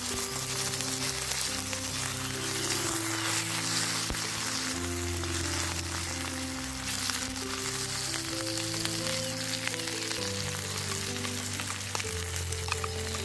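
Sliced onions and tomatoes sizzling in a metal wok as they are stirred with a wooden spatula. Soft background music with held low notes plays over it.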